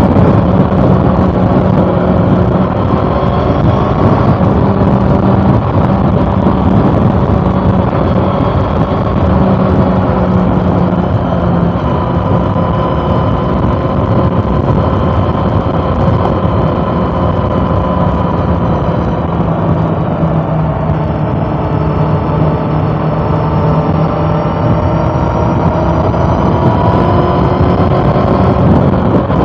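2013 Honda CB400 Super Four Revo Hyper VTEC's inline-four engine running steadily on the move, its pitch drifting slowly up and down and rising gradually over the last several seconds.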